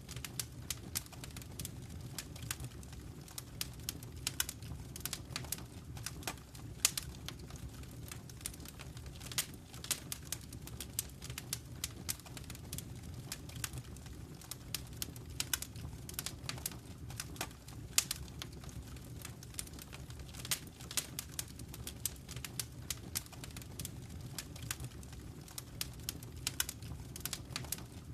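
Wood fire in a fireplace crackling, with irregular sharp pops over a low steady rumble of the flames; a couple of pops stand out louder.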